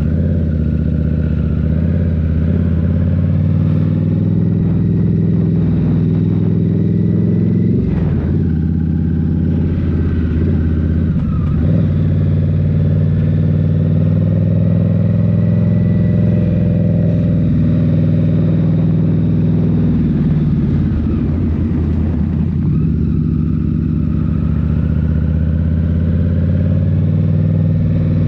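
2023 Indian Scout Rogue's 69 cu-in V-twin running under way through a Rinehart slip-on exhaust, its note dipping and picking back up about eight seconds, twelve seconds and twenty-one seconds in.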